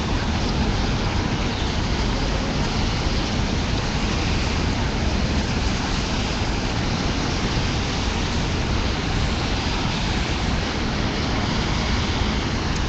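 Steady, even street noise from passing traffic, with no single event standing out.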